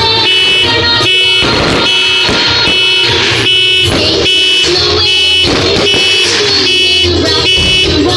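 Aerial fireworks crackling and bursting, with a loud repeating electronic tone pattern over them that cycles about twice a second.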